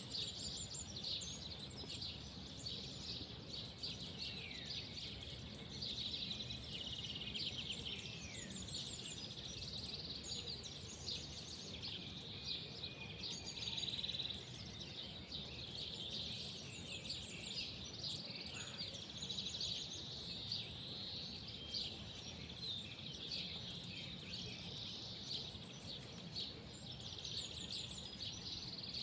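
Many small songbirds chirping and twittering continuously in quick, overlapping calls, with a few short downward whistles, over a steady low background rumble.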